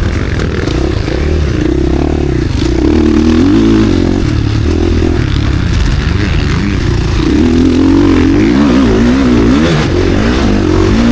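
KTM SX-F Factory Edition four-stroke motocross engine running hard, its pitch rising and falling again and again as the throttle is opened and shut.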